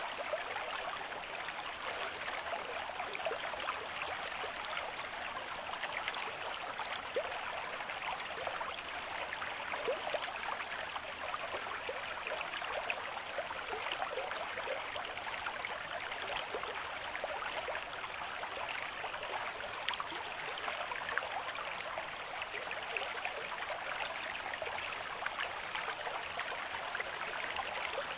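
Stream water flowing steadily over rocks, a continuous rushing with many small splashes and gurgles.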